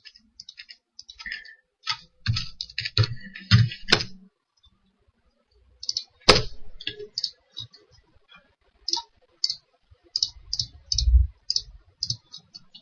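Computer mouse and keyboard clicking in irregular runs of short clicks, with a sharper click about six seconds in and a few dull low taps.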